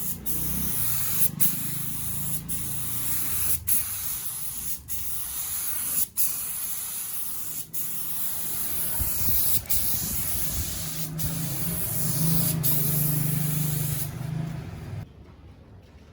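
Compressed-air spray hissing steadily, broken by short gaps every second or so, and stopping about a second before the end.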